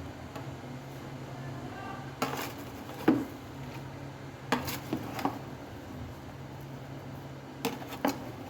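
Dishes and metal utensils clanking: about seven separate sharp knocks, one a little over two seconds in, the loudest about three seconds in, a cluster of three in the middle and two near the end.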